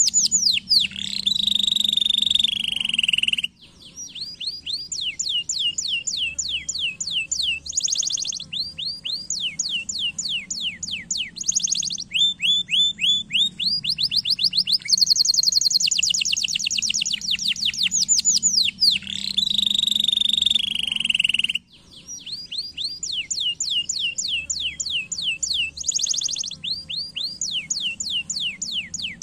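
Domestic canary singing a long, fast song of rolling trills, each a rapid run of repeated downward-sweeping whistled notes. The speed and pitch change from phrase to phrase, and a long buzzy note appears in places. The song breaks off briefly twice.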